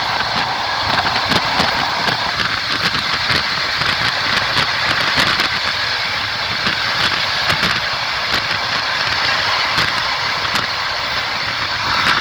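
Passenger train running along the track, heard from inside the carriage: a steady rushing rumble of the wheels on the rails with many sharp, irregular clicks and rattles.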